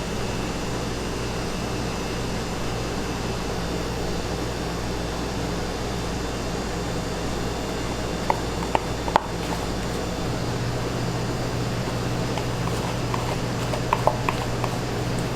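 A steady machine hum, with a few light clicks and taps about eight seconds in and again near the end.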